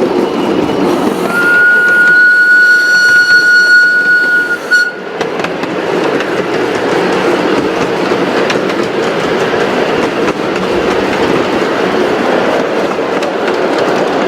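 A train running along the track with a steady rolling clatter. A whistle sounds one long steady note for about three and a half seconds, starting about a second in.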